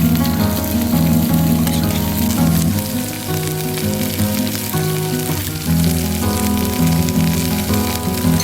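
Sizzling, frying-like crackle over background music of long held notes that change in steps.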